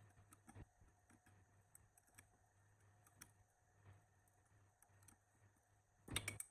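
Near silence with faint scattered light clicks and taps, and a louder short clatter of knocks near the end.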